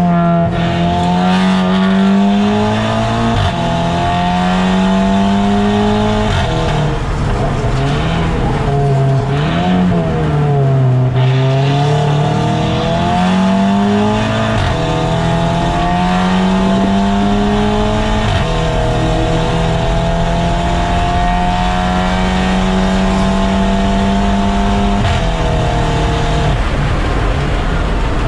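A 2008 Audi TT race car's engine heard from inside the car at racing speed, its pitch climbing and dropping in steps through the gears, dipping and recovering about ten seconds in, and holding steady for several seconds near the end. A steady rush of road and wind noise runs underneath.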